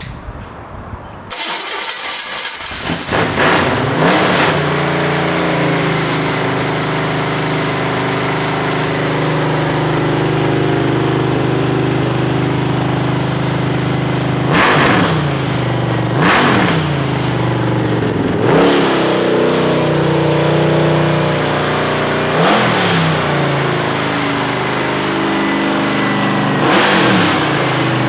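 377 cubic inch small-block Chevy V8 on an engine run stand, starting within the first few seconds and then running steadily at a fast idle for its break-in, with the throttle blipped about six times, a quick dip and rise in engine speed each time.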